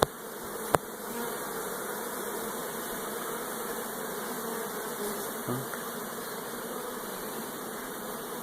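Honeybees at an apiary humming steadily, the collective buzz of many bees busy working the hives. A single sharp click sounds about a second in.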